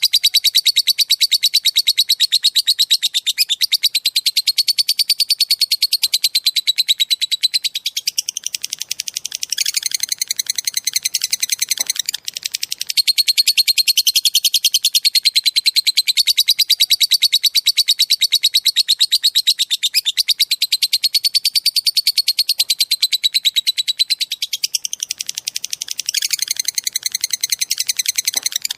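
A small songbird's very fast, high trill, held for several seconds at a time with brief breaks. The same phrase repeats over and over, as in a looped masteran recording used to train songbirds.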